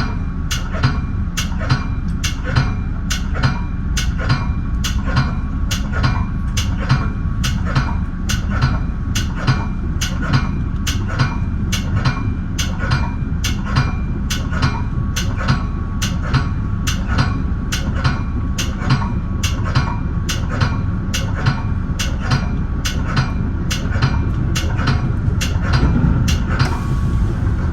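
Ride noise inside a moving Metra bi-level commuter car: a steady low rumble with a regular sharp clicking, about three clicks every two seconds.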